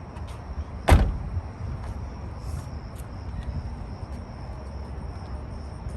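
Roush Mustang's V8 idling after a cold start, a steady low rumble, with one sharp click about a second in.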